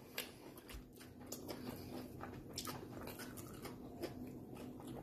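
Faint chewing of a mouthful of sandwich, with soft, irregular mouth clicks.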